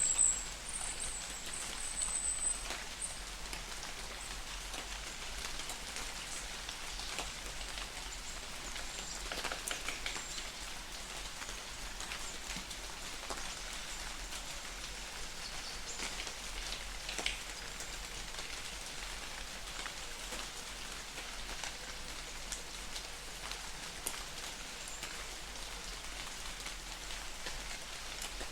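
Light rain falling in a forest: a steady hiss of rain with many individual drops tapping. A brief high chirping comes through in the first few seconds.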